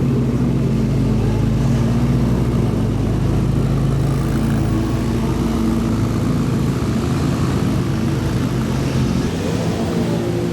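Supercar engine running steadily at low revs, a deep drone that eases off about halfway through.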